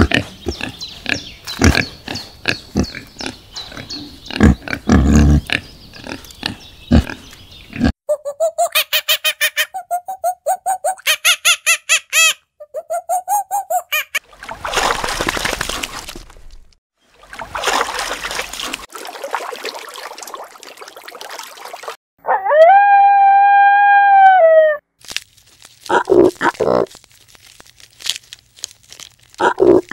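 Pig grunting, a dense run of short low grunts for the first several seconds. After that come other animal calls: a fast pulsed chatter, noisy bursts, and one long high call about two-thirds of the way through.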